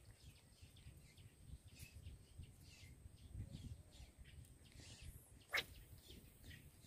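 Near silence outdoors: faint scattered bird chirps over a low rumble and a thin steady high tone, with one sharp click about five and a half seconds in.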